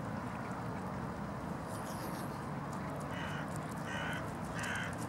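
A bird giving three short, harsh, caw-like calls in quick succession, about two-thirds of a second apart, starting about three seconds in, over a steady background hum.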